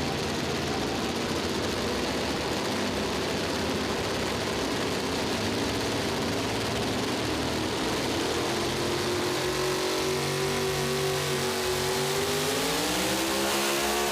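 Super modified four-wheel-drive pulling truck's engine running hard at high revs during a pull: a loud, steady engine note whose pitch rises near the end.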